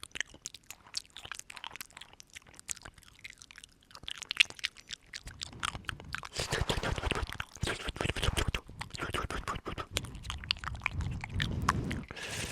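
Close-up wet mouth sounds: scattered clicks and smacks that grow denser and louder from about halfway through.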